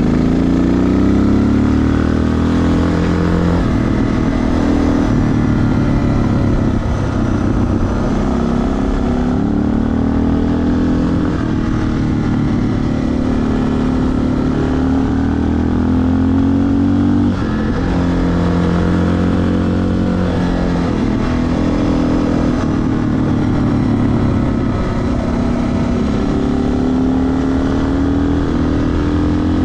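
Suzuki DR650's single-cylinder four-stroke engine running under way, its pitch rising and falling repeatedly as the throttle opens and eases off.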